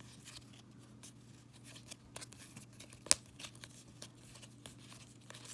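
Baseball trading cards being handled and flipped through: faint scattered ticks and slides of card stock, with one sharp click about three seconds in.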